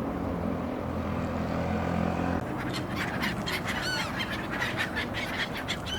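A low steady rumble, then from about two and a half seconds in a flock of black-headed gulls calling, many short calls overlapping in quick succession, some sliding in pitch.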